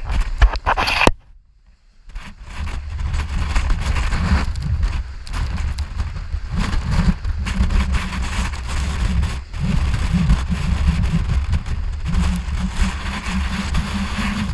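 Storm-force wind buffeting a GoPro's microphone, a heavy rumble that surges and eases with the gusts. It drops out almost to silence for about a second near the start.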